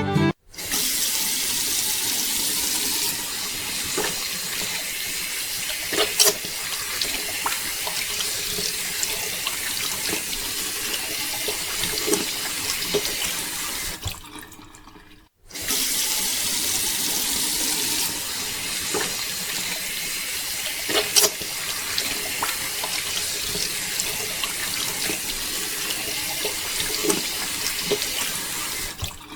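Steady rush of running water with a few sharp splashes. It breaks off briefly about halfway through, then starts again.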